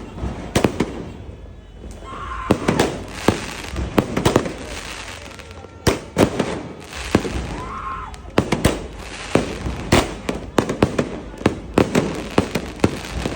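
Consumer firework cakes (16-shot) firing, many sharp bangs in quick irregular succession with crackling between them.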